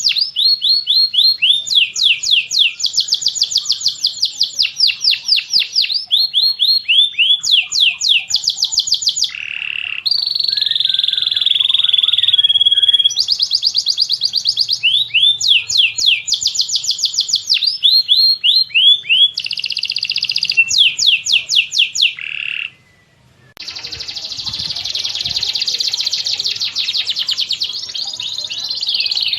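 Recorded songbird masteran of tengkek buto, cililin and canary calls: bursts of fast trills made of repeated downward-sweeping high whistles, with some held whistled notes between them. It cuts out briefly near the end, then resumes as denser continuous high warbling.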